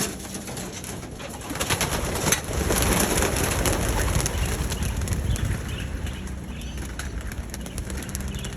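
Pigeons cooing in and around a loft, with scattered clicks and a louder rustling noise from about one and a half to five seconds in.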